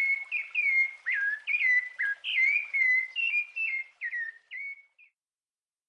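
A run of short whistled chirps, each dropping in pitch, about three a second, stopping about five seconds in.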